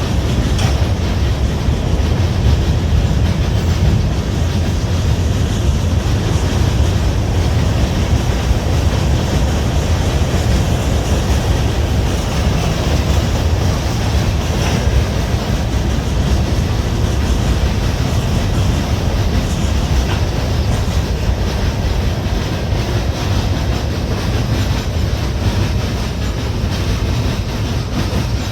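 Freight train cars rolling past on the track, a steady loud noise of wheels on rails that eases off slightly near the end.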